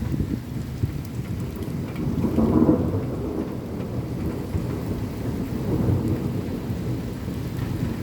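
Rain drops beating on window glass and the sill, over a low rumble of thunder that swells loudest about two and a half seconds in and again briefly near the end.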